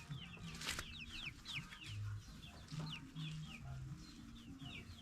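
A brood of young chicks peeping, many short high falling chirps overlapping one another, with a single knock just under a second in.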